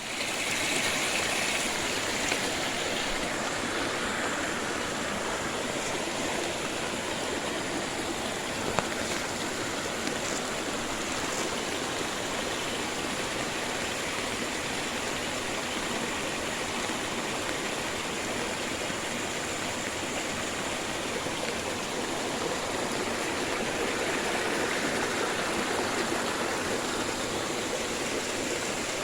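Flowing water rushing steadily, with a couple of brief faint clicks.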